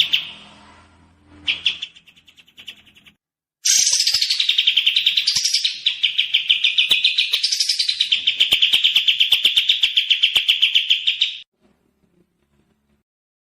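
Songbird song: a fast, even trill of repeated notes, about eight a second, with a few rising and falling sweeps, starting after a short pause and cutting off abruptly near the end.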